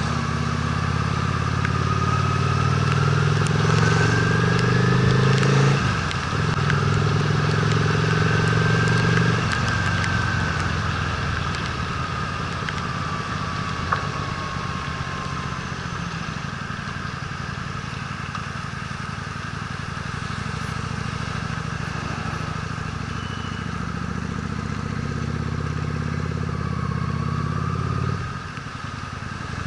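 Honda Steed V-twin motorcycle engine running under load. It pulls strongly through the first ten seconds with a short dip near six seconds, then settles into steady cruising and eases off near the end.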